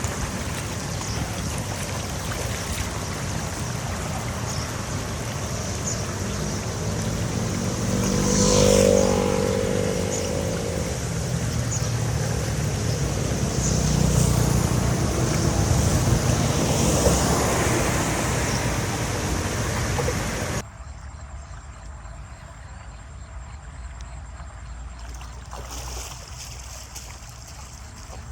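Water rushing, with a motor running under it. It swells briefly about nine seconds in and again for a few seconds a little later, then drops suddenly to a quieter rush about two-thirds of the way through.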